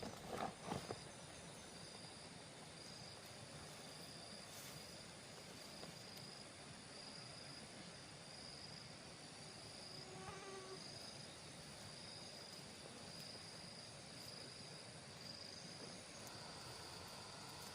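Faint insect chirping: a high-pitched pulse repeating about once a second, over quiet outdoor background. A few soft knocks come in the first second, and a short pitched call is heard about ten seconds in.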